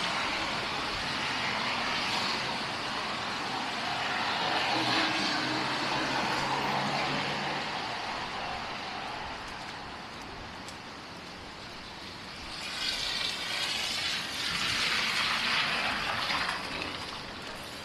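City street traffic: motor vehicles running and passing, with a low engine hum in the first half and a louder passing vehicle about two-thirds of the way through.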